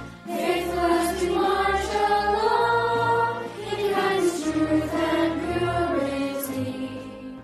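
Choir singing with instrumental accompaniment, cutting off suddenly at the end.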